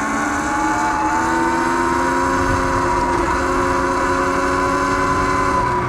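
Sur-Ron Light Bee electric dirt bike under way: the electric motor's whine rises slightly in pitch over the first couple of seconds as the bike picks up speed, then holds steady over a rushing noise.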